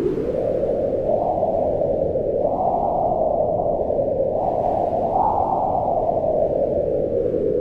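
Howling wind: a continuous rushing sound whose pitch rises about a second in, swells twice, and sinks again toward the end.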